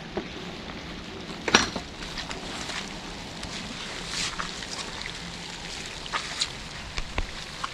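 Outdoor background noise, a steady hiss with scattered irregular sharp taps and clicks, the loudest about a second and a half in.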